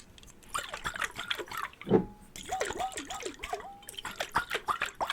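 Water sloshing inside a jar, a quick run of bubbly plops whose pitch slides up and down, with a dull thump about two seconds in.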